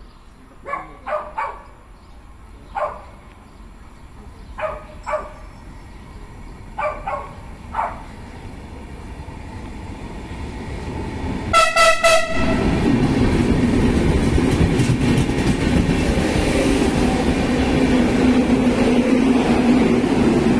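Renfe Media Distancia electric passenger train sounding a short, loud horn blast about halfway through, then running close past with a steady loud rumble and low hum. In the first eight seconds there is a string of short, higher toots.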